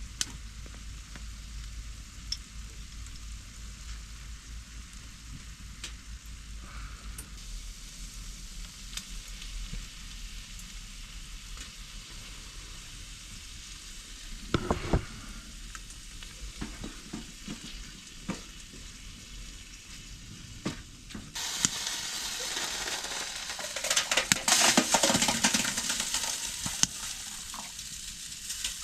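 Food sizzling in a frying pan, a steady hiss broken by scattered clicks and the knocks of stirring. About 15 s in comes a short cluster of knocks, and from about 21 s the sizzle turns louder and brighter.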